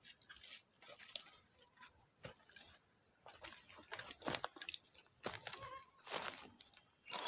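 Steady high-pitched drone of forest insects, with scattered light clicks and rustles that come more often in the second half.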